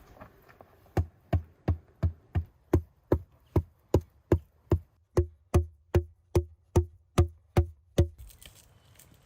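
A rapid, even series of about twenty hard knocks, close to three a second. Each knock has a dull thump, and the later ones carry a short ringing tone. They start about a second in and stop abruptly about eight seconds in.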